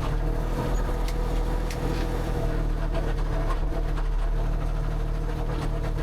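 A motor running steadily with a low hum, with a few faint clicks about a second or two in.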